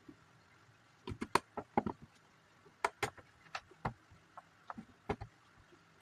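Plastic Lego pieces clicking and clattering as they are handled and pressed together: a dozen or so sharp, irregular clicks in small clusters.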